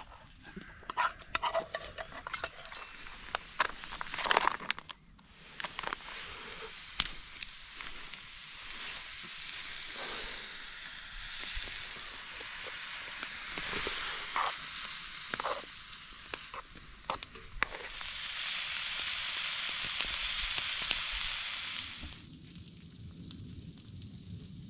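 Food frying in a pan on a wood stove, with clicks and knocks of a utensil stirring it. The sizzle starts after a few seconds of stirring, builds to its loudest near the end and cuts off suddenly.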